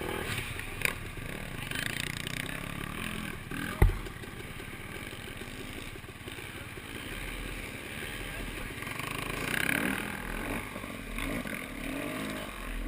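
Off-road motorcycle engine running, with a single sharp knock about four seconds in.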